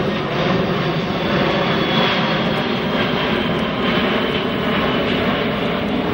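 Boeing C-17 Globemaster III's four turbofan engines running as the transport flies its demonstration circuit, a steady jet noise with a faint high whine that falls slightly in pitch.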